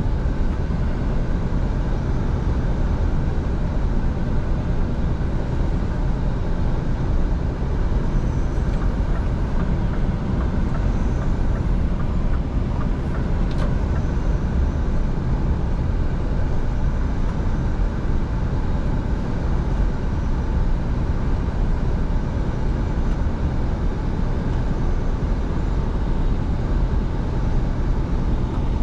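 Scania V8 truck driving at a steady pace: an even drone of engine and road noise with no change in pitch.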